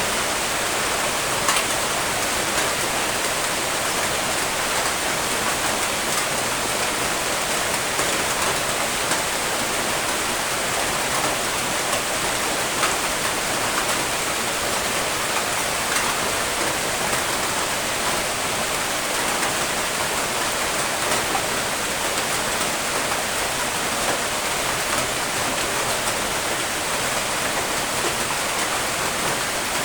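Steady heavy rain: a dense, even hiss of falling water with scattered sharper drop ticks.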